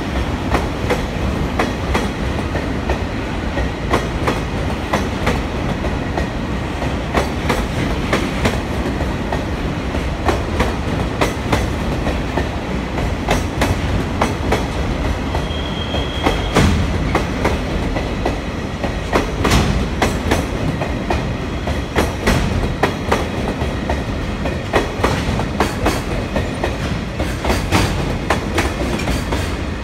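Koki container flatcars of a freight train rolling past, their wheels clacking repeatedly over rail joints over a continuous rumble. A short, high squeal is heard about halfway through.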